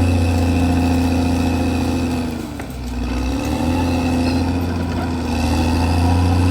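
CAT D6R XL bulldozer's diesel engine running steadily with a high whine over it; about halfway through the engine note dips in pitch and level and then picks back up.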